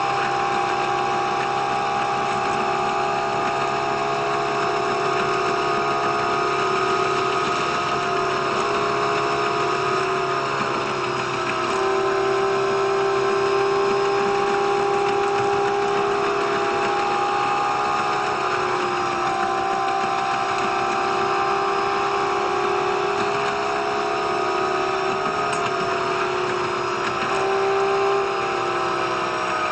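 Diesel railcar's engine and running noise sped up five times, so it comes out as a high, steady machine whine that steps in pitch a few times.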